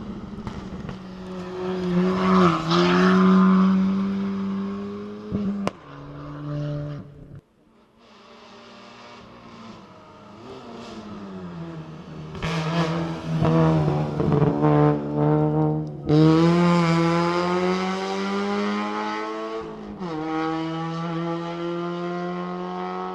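Competition rally car engines at high revs, the pitch climbing and dropping with throttle and gear changes. The sound cuts abruptly between passes about seven and sixteen seconds in.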